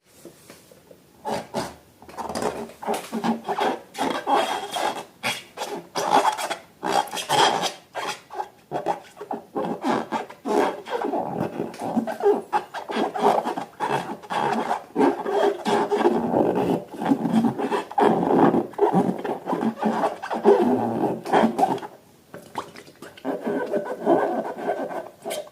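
Close-up handling of slime and balloons by hand: continuous rubbing and squishing with many small crackles, pausing briefly near the end.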